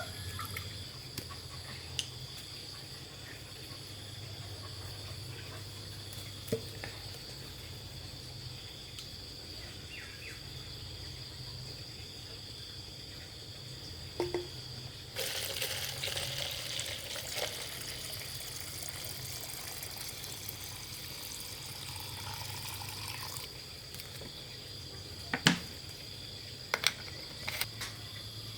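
Steady high-pitched insect chirring, with a stretch of rushing, hiss-like noise for several seconds past the middle and a few sharp knocks near the end.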